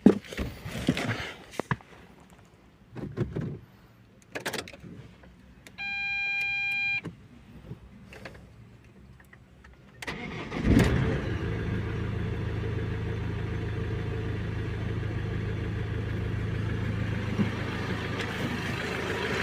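A few clicks and knocks, then a single beep lasting about a second. About ten seconds in, the Ford Transit's engine starts and settles into a steady idle. This is its first start after the camshaft, vacuum pump and water pump were replaced.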